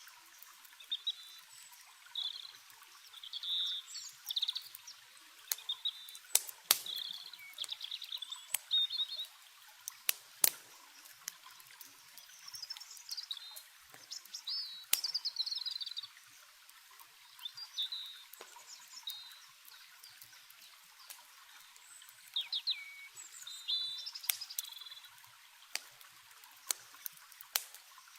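Small birds chirping and trilling in quick, bright phrases over a steady rush of running water, with sharp pops and crackles from a campfire every few seconds.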